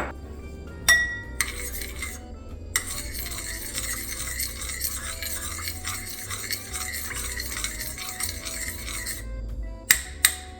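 A metal spoon stirring oats, oat milk and jam in a bowl, with a rhythmic scraping for several seconds. Clinks of the spoon against the bowl come near the start and again near the end.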